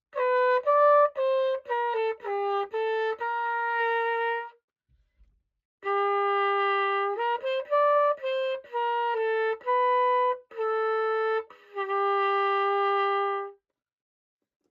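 Old pocket cornet, freshly repaired and cleaned, played solo: a melody of separate notes in two phrases, about four and a half and eight seconds long, with a short pause between them.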